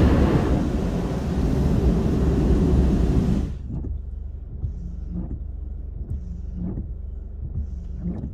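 Loud rushing hiss of car wash equipment heard from inside the car, cutting off sharply about three and a half seconds in. Then a low steady rumble of the car idling, with a few light clicks.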